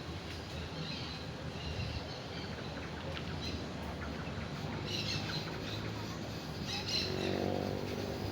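Birds chirping in short, scattered calls over a steady low background rumble, with a brief pitched sound near the end.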